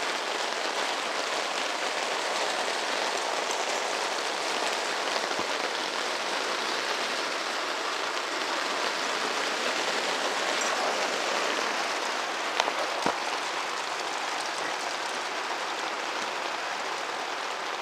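Steady rain falling, an even hiss of drops with no letup. Two brief knocks come about two-thirds of the way through.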